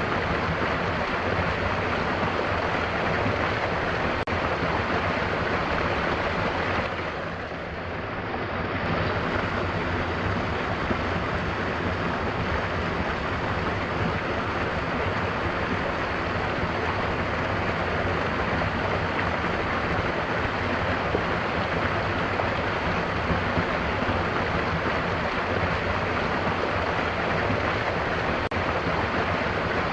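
Mountain waterfall rushing steadily, an even roar of falling water that softens briefly about seven seconds in.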